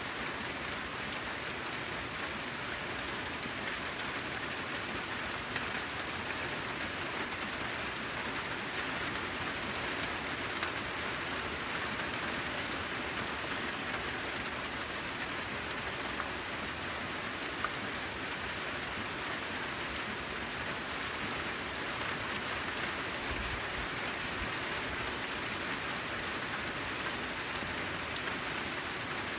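Steady rain falling, an even hiss with now and then a single drop ticking louder.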